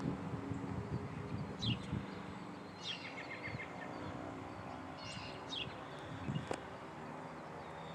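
Birds calling: several short, high calls that sweep downward and a quick stuttering series of notes, over a steady low hum.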